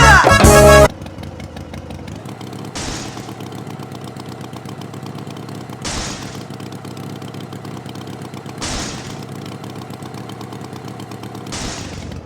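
Music cuts off about a second in, and a tractor engine idles steadily, with a short burst of hiss about every three seconds.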